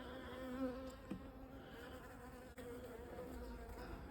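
Honeybees buzzing in flight: a faint, steady hum that wavers in pitch.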